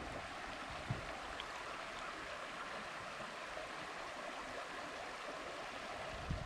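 Flowing water of Big Piney Creek, a steady, even rush.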